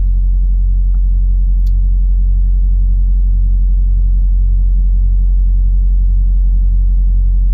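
A steady, loud low hum with a faint slow pulsing.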